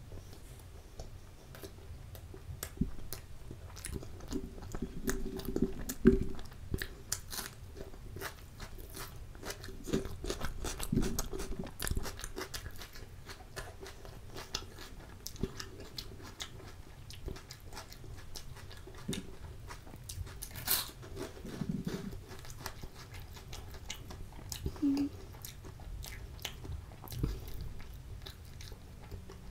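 Close-miked chewing and biting of chole and kulcha: wet mouth sounds broken by many sharp, crisp clicks, loudest about six seconds in and again near twenty-one seconds.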